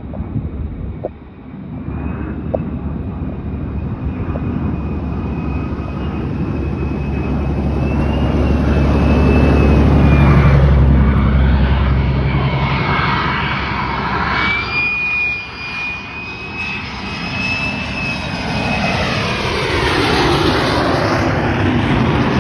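Military jet aircraft engines: a loud rumble with a steady high whine over it. The rumble builds to its loudest about ten seconds in, eases, then swells again near the end.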